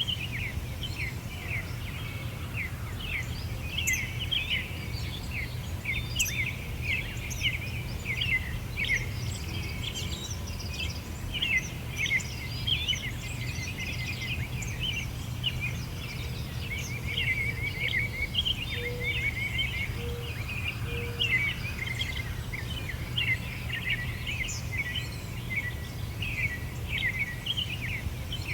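Many small songbirds chirping and twittering continuously in a busy overlapping chorus, over a steady low rumble. A few short, lower notes come in about two-thirds of the way through.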